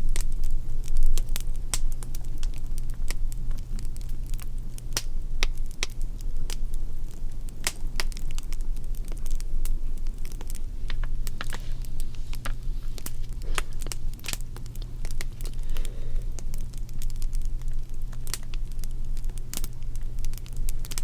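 Fire crackling with frequent irregular sharp pops and snaps over a steady low rumble.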